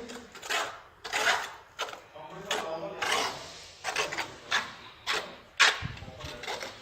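Tile-setting work: a dozen or so irregular short scraping and tapping strokes of mason's tools on mortar and tile, the sharpest about five and a half seconds in.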